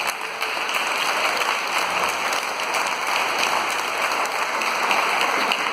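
Congregation applauding: a steady patter of many hands clapping.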